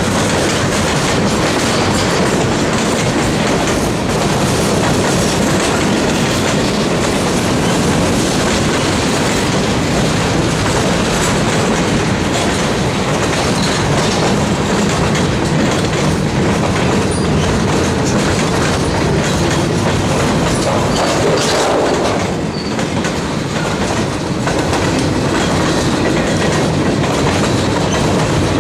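Freight train cars rolling steadily past, their wheels clicking over the rail joints in a continuous clickety-clack.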